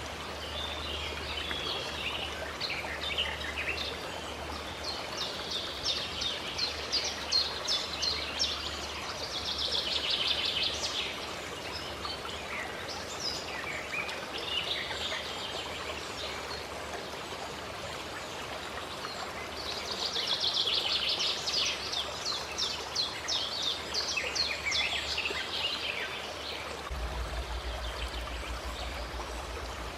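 Songbirds singing in fast, repeated chirping trills over the steady rush of a flowing stream. The bird song comes in two busier spells, one a few seconds in and one about two-thirds of the way through.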